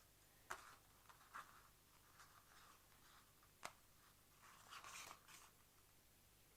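Faint clicks and rustling of small plastic wiring connectors and cables being handled: a few separate sharp clicks, then a short rustle near the end.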